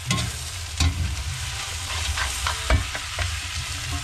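Meat, onion and carrots frying in hot oil in a kazan, a steady sizzle with a few short knocks and scrapes through it. This is the frying stage of plov, before water is added for the zirvak.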